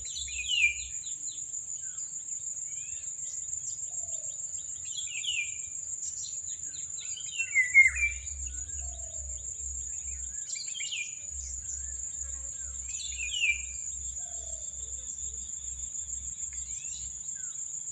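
A steady, high-pitched insect trill from crickets or cicadas runs throughout. Birds call over it with short descending notes every few seconds, the loudest about eight seconds in.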